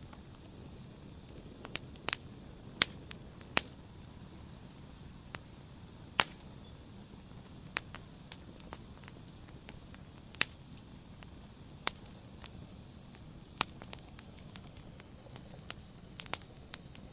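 Wood fire burning in a fireplace: a low steady hiss with irregular sharp crackles and pops, a few of them loud and most faint.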